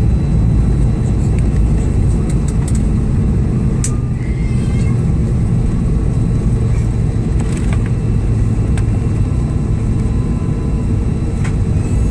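Cabin noise inside a Canadair CRJ-900 regional jet during the landing: a loud, steady low rumble of the engines and airframe, with a few light clicks and rattles.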